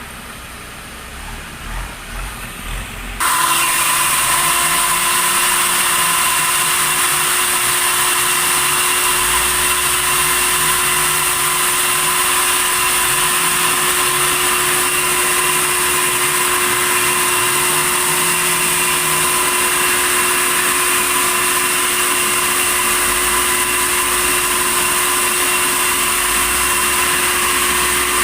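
Sawmill saw cutting red tasak timber. It starts suddenly about three seconds in, then runs on as a loud, steady grinding noise with a high whine.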